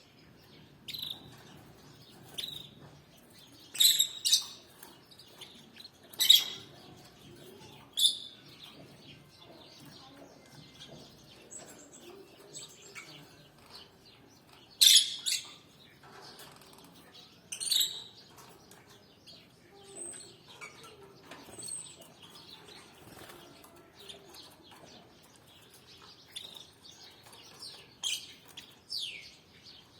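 Canaries chirping: scattered short, sharp calls, a handful of them loud, with softer chirps and brief gliding notes in between.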